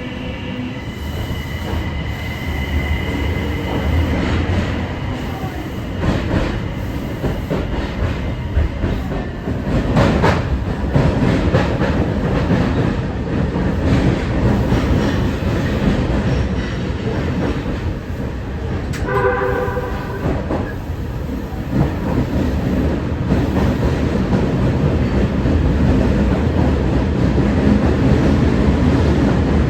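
Kita-Osaka Kyuko 9000 series electric train running on rails, with a steady rumble of wheels and running gear. A faint high whine in the first few seconds fades out. About 19 seconds in, a short pitched horn-like signal sounds.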